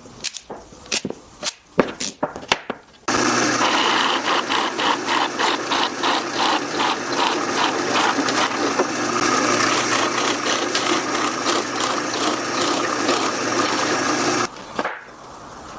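A few sharp knocks, then a woodworking power tool runs steadily with a fast rhythmic pulse for about eleven seconds, starting and stopping abruptly.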